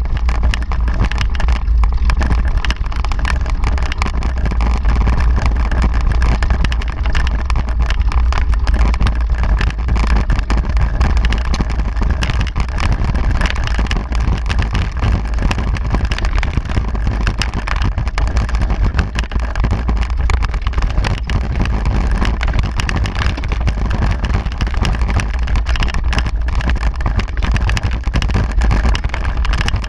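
Steady low wind rumble on the microphone of a camera carried on a moving mountain bike, with a haze of tyre and riding noise.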